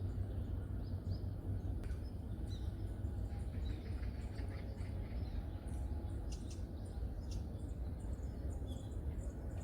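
Scattered short chirps from small forest birds, more of them in the second half, over a steady low rumble.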